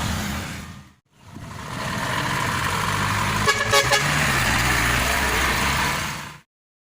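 Maxxi Bimo 102 combine harvester's engine running steadily. It breaks off for a moment about a second in, then comes back. A few short horn-like toots sound around the middle.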